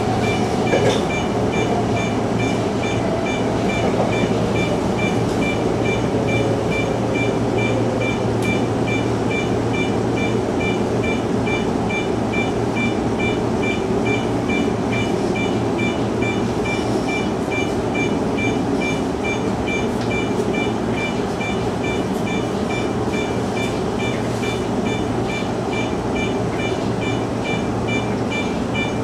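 Electric commuter train running along the line, heard from the driver's cab: a steady rumble of motors and wheels on the track, with a faint tone sliding down in pitch over the first several seconds. A high beep repeats at an even pace throughout.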